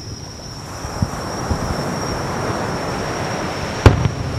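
Fireworks heard from a distance: soft thumps about a second in and again half a second later, then one sharp, loud bang near the end, over a steady rushing rumble and a thin high insect-like whine.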